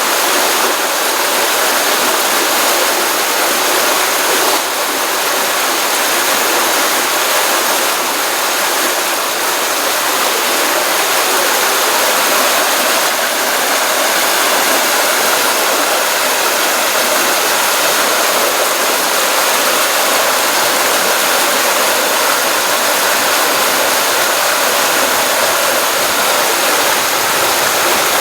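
Stream water running steadily, a dense continuous rushing and splashing with no change over time.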